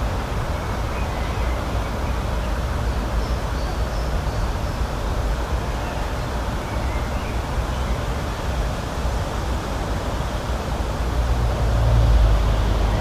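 Steady rushing outdoor noise with a deep rumble that swells near the end, and a few faint short bird chirps above it.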